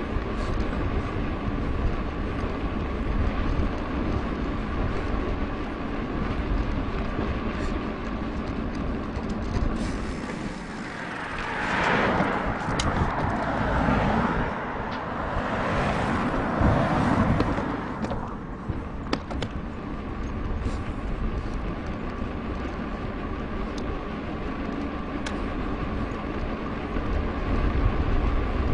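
Wind rushing over an action camera's microphone and tyres rolling during a mountain-bike ride, a steady low rumble throughout. A louder rushing swell rises and falls for several seconds in the middle.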